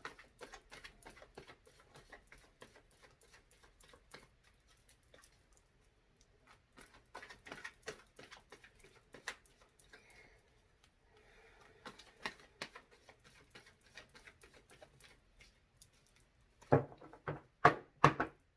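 A deck of tarot cards being shuffled by hand: a long run of quick, light card clicks and rustles, then four louder knocks near the end as the deck is tapped down.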